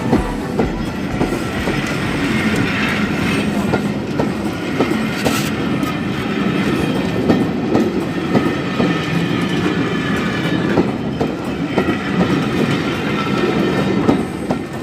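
A train running past, its wheels clattering over the rail joints in a continuous rumble dotted with sharp clicks.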